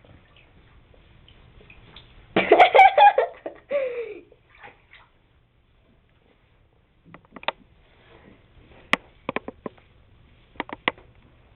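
Water splashing and dripping while a cat is bathed in a shower. About two seconds in there is a short, loud vocal outburst with a falling note after it, and later a series of sharp clicks or splashes.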